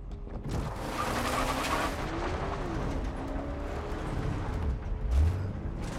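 Moving car's low engine and road rumble, with a loud rush of noise for about a second and a half just after the start and a short heavy thump about five seconds in.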